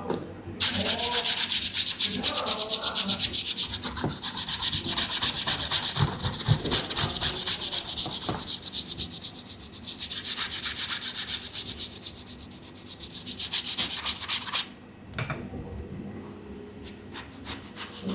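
A brush scrubbing a sneaker in quick back-and-forth strokes, with two short pauses. The scrubbing stops about fifteen seconds in.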